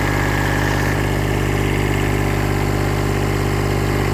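Kubota B7100HST compact tractor's 16 hp diesel engine idling steadily and running clean.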